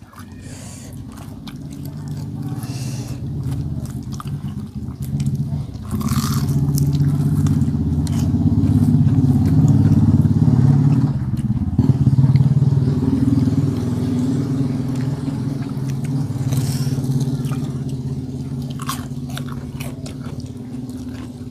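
Close-miked biting and chewing of crispy fried tofu, with a few sharp crunches. A steady low rumble runs underneath, swelling in the middle and slowly fading.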